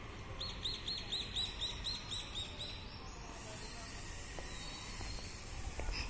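A bird calling a quick series of about ten short, high, arched notes, about four a second, stopping about three seconds in.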